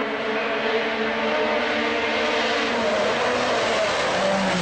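Rally car engine running hard at high revs, its pitch held nearly steady and dipping slightly near the end, with a steady hiss under it.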